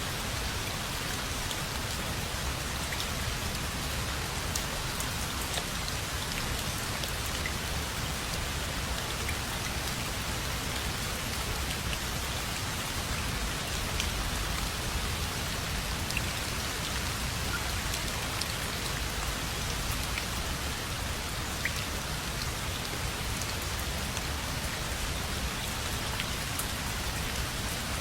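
Steady rain falling, a dense even hiss with scattered individual drop ticks and a low rumble underneath.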